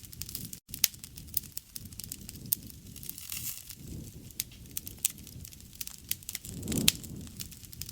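Campfire crackling, with frequent irregular sharp pops and snaps over a low rushing sound that swells twice. The sound cuts out for an instant just after half a second in.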